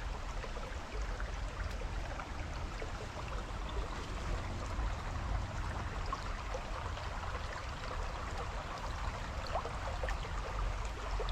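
Fast-flowing creek water, high and swift after hurricane rains, making a steady rushing wash with a low rumble underneath.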